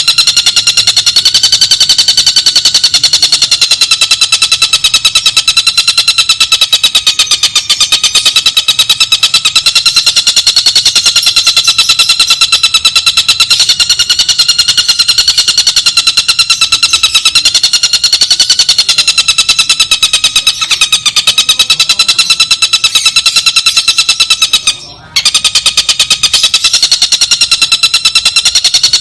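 Tengkek buto kingfisher calling in a long, fast, even rattling trill, high-pitched and unbroken but for a brief pause near the end.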